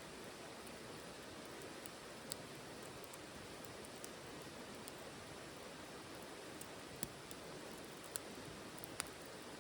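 Wood fire burning in a titanium wood stove: a steady soft hiss with occasional sharp crackles and pops, about five of them, the loudest near the end.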